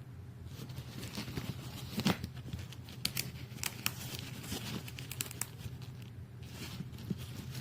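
Rustling and crinkling handling noises with scattered sharp clicks, loudest about two seconds in, over a low steady hum.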